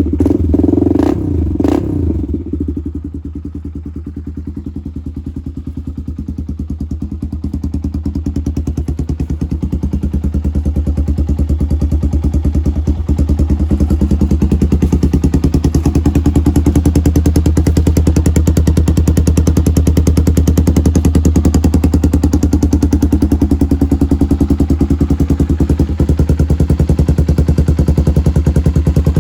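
Honda ATC 350X's new-old-stock single-cylinder four-stroke engine running. It is blipped a few times in the first two seconds, then idles steadily and evenly, growing gradually louder after that.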